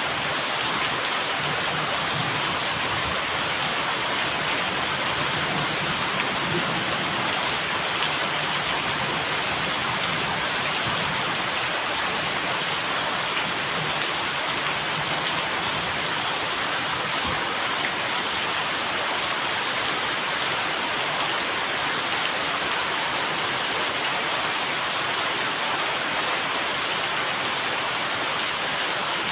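Steady rain falling: an even, continuous hiss that does not change.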